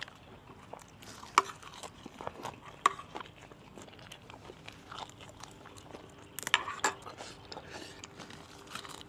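A person chewing a mouthful of pounded santol salad, with several sharp crunches: one about a second and a half in, one near three seconds, and a louder cluster around six and a half seconds.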